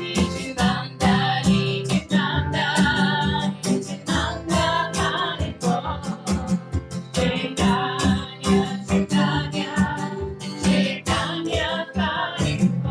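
Devotional kirtan music: an acoustic guitar strummed in a steady rhythm, with voices singing over it.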